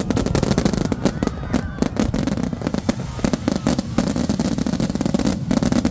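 Fireworks finale: a dense barrage of rapid bangs and crackles over a continuous low rumble.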